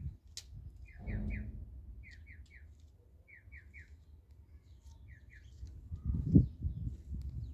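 A bird chirping: short high notes in groups of two or three, repeating about once a second. Low thumps of handling noise come and go, the loudest about six seconds in.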